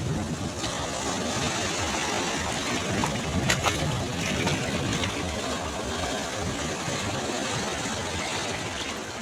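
Sea waves washing on a shore: a steady rush of surf, with a couple of brief sharp crackles a little past three seconds in.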